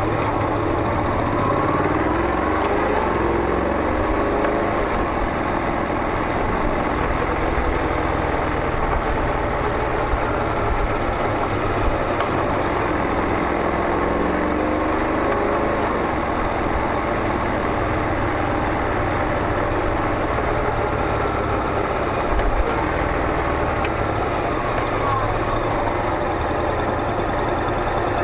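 Honda NC700X DCT's parallel-twin engine running through a Beams slip-on exhaust, steady, with its pitch rising and falling a few times.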